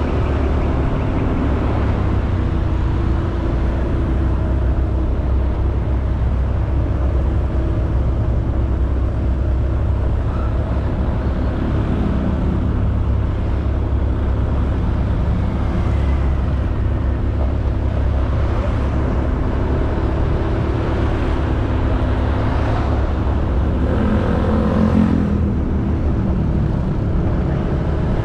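Honda Beat 110cc single-cylinder scooter running steadily while being ridden, under a constant low rush of wind and road noise. It grows slightly louder about 25 seconds in.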